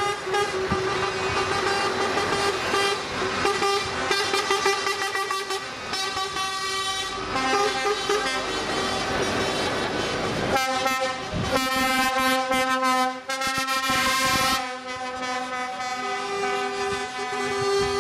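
Truck air horns blowing long, steady blasts, several sounding at once in overlapping pitches. The mix of horns changes about ten and a half seconds in and again about fifteen seconds in.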